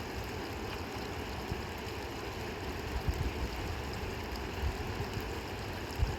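Steady rush of fast-flowing river water, with a few brief low thumps.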